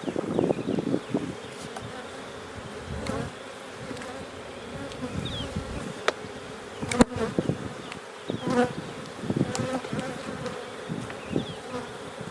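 A swarm of Carniolan honey bees buzzing steadily around an opened hive, with a few sharp clicks and a single loud knock about seven seconds in.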